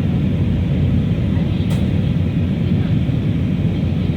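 Steady cabin rumble of an Airbus A319 in flight, heard from a passenger seat: engine and airflow noise, deep and even. There is one faint short tick a little under two seconds in.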